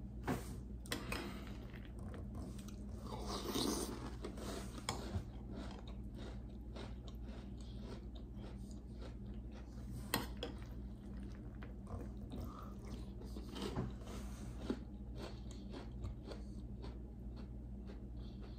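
A mouthful of crunchy chocolate puffed cereal in milk being chewed, with scattered sharp clicks of a metal spoon against a glass bowl, over a steady low hum.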